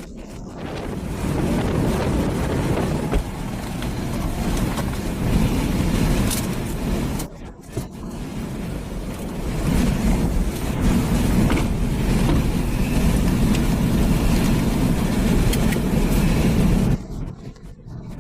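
Strong wind buffeting the microphone in a continuous, fluctuating rumble, broken by a brief dip about seven and a half seconds in and dropping away just before the end.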